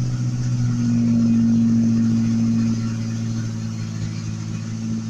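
Truck engine running at a steady idle, a little louder between about one and three seconds in, then settling.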